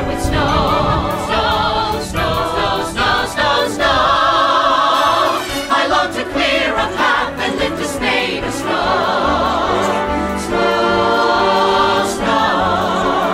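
Music: a choir holding long, wavering sung notes over an orchestral accompaniment, with no clear words.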